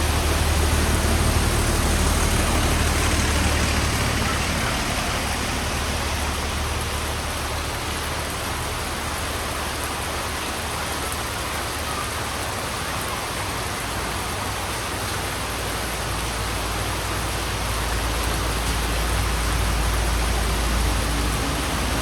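Heavy rain pouring steadily onto a road surface, with a low rumble underneath that is strong at the start, eases off, and swells again in the last several seconds.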